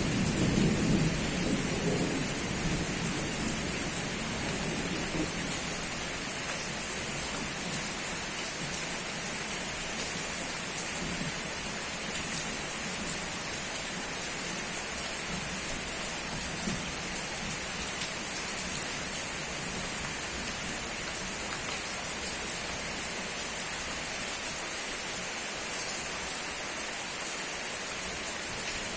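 Steady rain falling, with a low roll of thunder in the first few seconds that fades away.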